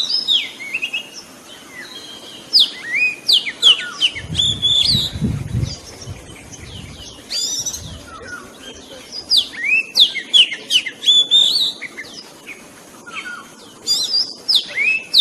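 Oriental magpie-robin singing: quick runs of varied whistles and sharp chirps in short phrases with brief pauses. A low rumble sounds under the song about four seconds in.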